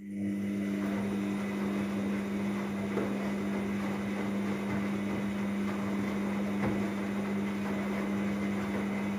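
Myria MY1506 washing machine in its rinse cycle: a steady electrical hum from a pump or valve over water rushing through the machine.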